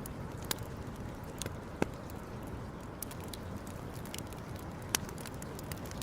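Wood campfire burning: a steady low rush with scattered sharp crackles and pops, two of them louder, about two and five seconds in.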